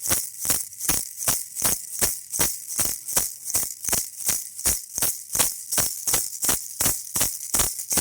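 Baby rattle shaken steadily in an even rhythm, about four rattling strokes a second, each a bright hissy shake of the beads inside.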